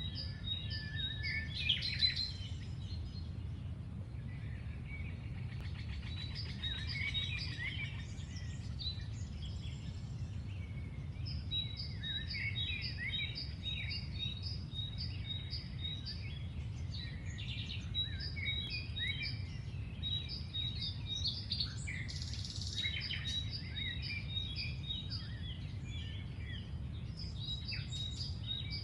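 Birds chirping and calling, one repeating a short high note two or three times a second, over a steady low rumble.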